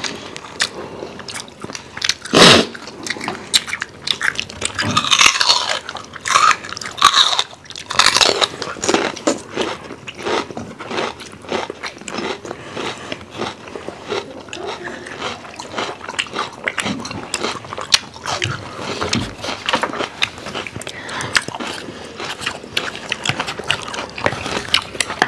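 Close-up mukbang eating sounds: several people chewing and biting food, with irregular clicks and short bursts, the loudest about two and a half seconds in.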